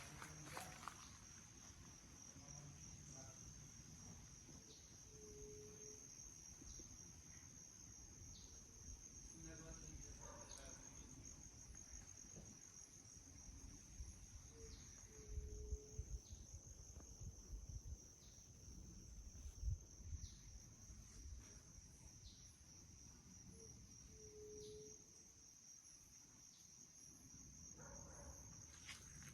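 Insects trilling steadily in a high, even, finely pulsing tone, with three short low notes about ten seconds apart and a few low bumps midway.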